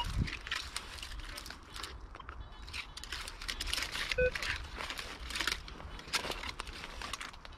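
Repeated rustling and scraping noises from the search ground, with a short electronic beep from the metal detector about four seconds in.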